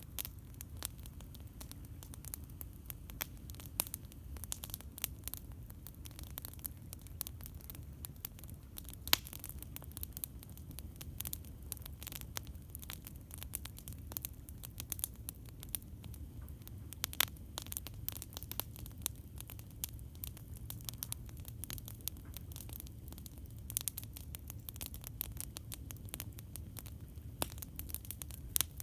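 Wood campfire crackling: many small irregular pops and snaps with a few louder cracks, over a steady low rumble.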